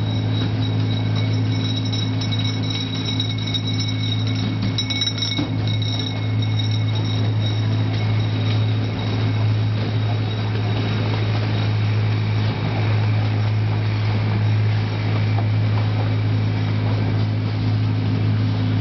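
Zoo train running steadily along its track, a constant low drone from the locomotive heard from an open passenger car. A thin high-pitched whine sits over it for the first half and fades out.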